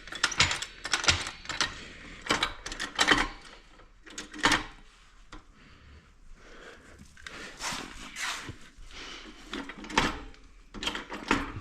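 Irregular clanks, knocks and scrapes of tools working on a part of the quad that is pinched and won't move.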